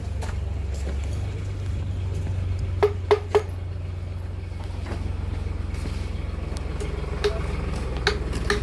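Tractor engine running with a steady low rumble. A few sharp clinks come about three seconds in and again near the end.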